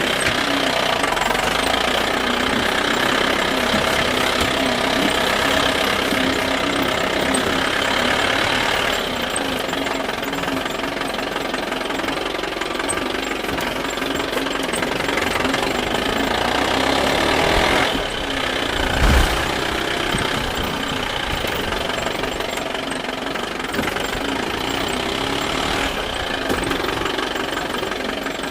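Heavy diesel engine of an earth-moving machine running steadily. Its sound shifts about nine seconds in, and a short, low thud comes about two-thirds of the way through.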